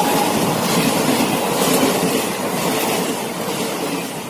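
Passenger train passing at speed: a steady rush and rumble of wheels on the rails, slowly fading. The end of a horn blast cuts off just at the start.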